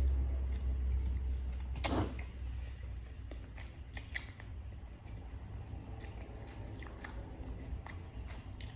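A person chewing and biting into crispy fried chicken close to the microphone, with scattered crunches and wet mouth clicks; the loudest crunch comes about two seconds in. A low rumble fades out over the first few seconds.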